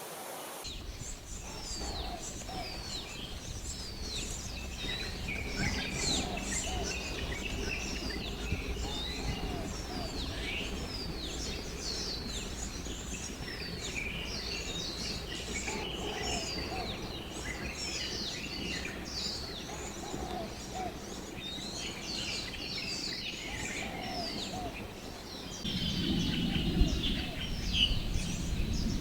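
Birds calling continuously, a busy stream of short, downward-sliding chirps and whistles. From about 26 seconds a louder low rumble joins in, along with a quick run of repeated high notes.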